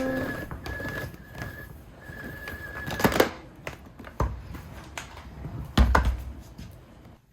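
Scattered clicks and knocks of objects being handled in a small room, the loudest about three seconds in and again about six seconds in. A faint high steady whine comes and goes during the first three seconds.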